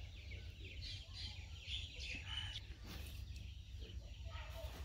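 Birds chirping faintly, short falling calls repeated throughout, over a low steady hum.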